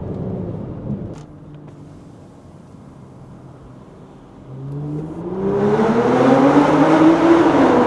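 BMW X5 xDrive45e's turbocharged straight-six, tuned and breathing through a valved catback exhaust, accelerating hard. After a quieter stretch the engine note climbs steadily in pitch with a loud exhaust rush for about three seconds, then drops near the end as it eases off or shifts up.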